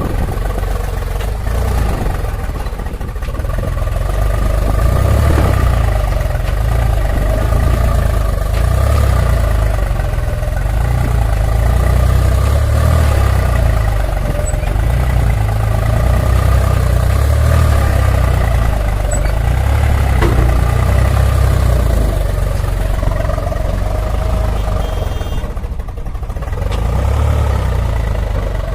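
Heavy diesel engine running steadily with a deep rumble, a little louder after the first few seconds.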